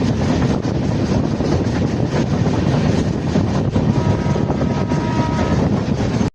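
Wind buffeting the microphone over the steady rumble of a moving train, with a faint high steady tone for about a second and a half near the end.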